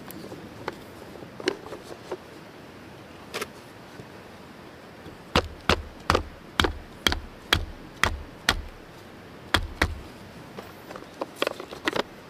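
A run of about ten sharp chopping blows on wood, roughly two a second, each with a dull thud, with a few scattered single knocks before and after.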